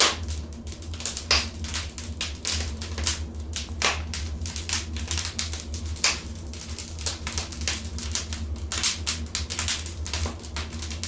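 Wood fire in a fireplace crackling, with irregular sharp pops and snaps, a few louder ones near the start and about 1.3, 3.9 and 6 seconds in, over a steady low hum.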